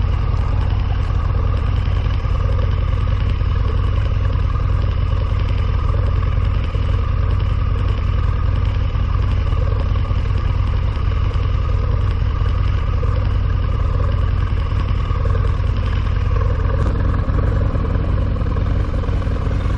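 Harley-Davidson V-Rod's liquid-cooled V-twin engine running steadily as the motorcycle cruises, with heavy wind rumble on the handlebar- and chest-mounted microphones.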